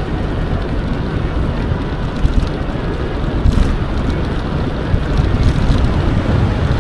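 Wind buffeting the microphone of a camera on a moving electric mountain bike: a steady low rumble, with a few faint ticks from the bike on the trail.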